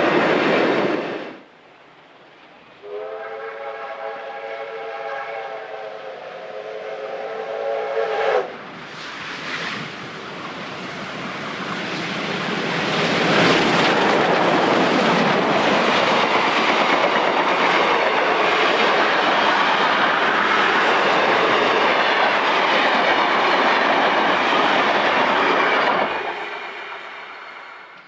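A train whistle sounds a steady chord for about five seconds, then a train approaches and passes with a loud, steady rush of running noise that fades away near the end.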